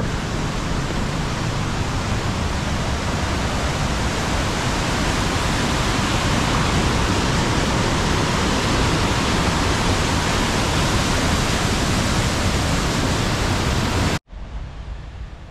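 Steady loud rush of the Düden River's water below Upper Düden Falls, which cuts off suddenly about a second before the end.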